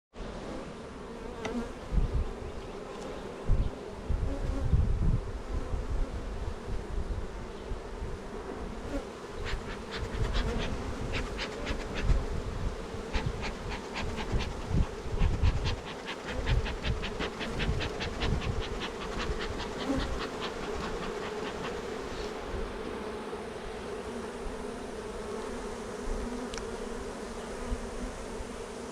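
Honeybee colony buzzing, a steady drone from the many bees in the opened hive. Low thumps come and go underneath, and a run of quick ticks, about three a second, sounds through the middle.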